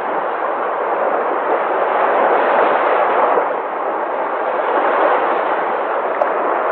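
Sea waves breaking: a loud, continuous rush of surf that swells a little and eases slightly about halfway through.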